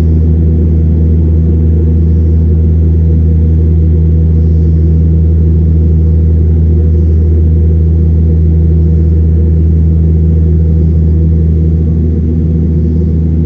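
Dash 8-300 turboprop engines and propellers running at steady power, a loud, even low drone with a stack of overtones that eases slightly near the end.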